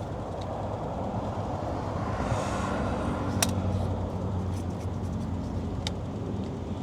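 Steady low mechanical hum of background machinery, with a few faint small clicks.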